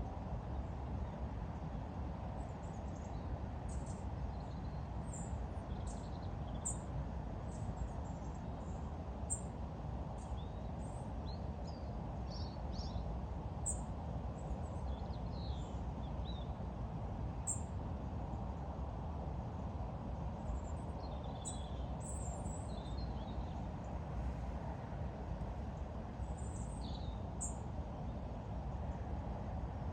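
Small birds chirping and calling in short high notes throughout, over a steady low background rumble.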